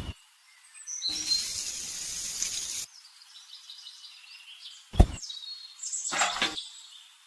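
Short high bird chirps over a steady hiss, with a sharp click about five seconds in.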